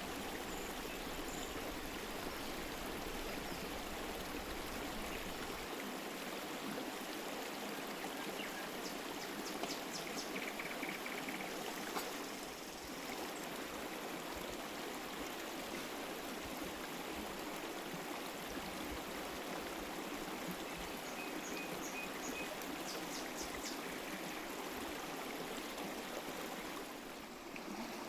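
Steady rush of running water, like a flowing stream, with a few faint, short, high chirps over it twice.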